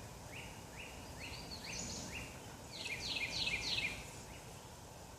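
Birdsong over a steady outdoor background hiss. First comes a run of about five short rising whistled notes, then a quicker run of about five falling notes near the middle.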